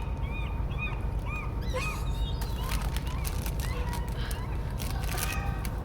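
Seagulls calling over a steady low rumble: a quick run of short, arching cries, about three a second, with harsher, more crowded calling in the second half.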